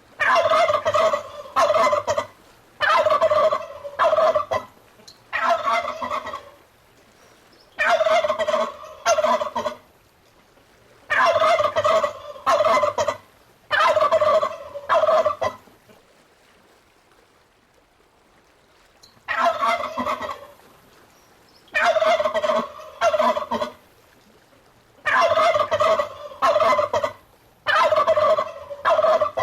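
Turkey gobbling over and over: loud, rattling gobbles one to two seconds long, coming in quick succession with a pause of a few seconds about halfway through.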